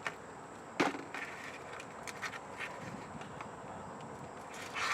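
Metal tools and starter parts being handled: a sharp knock about a second in, then scattered light clicks and taps.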